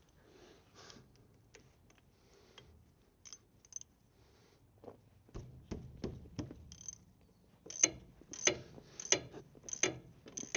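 Hand tools working on a wheel hub: a series of sharp metallic clicks and knocks, sparse at first, then more frequent and louder in the second half.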